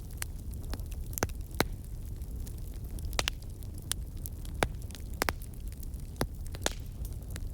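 Campfire burning with a steady low rumble and irregular sharp crackles and pops from the burning wood, about a dozen in a few seconds.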